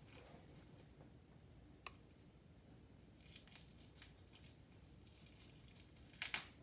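Near silence broken by faint handling sounds: a single sharp click about two seconds in, a few soft scratchy rustles after it, and a louder short scrape near the end.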